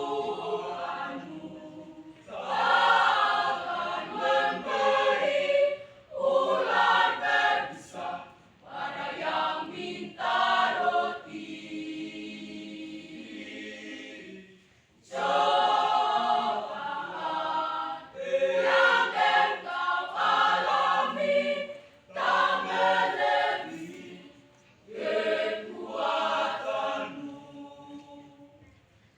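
School choir singing in phrases with short breaks between them, with a quieter, held passage about halfway through.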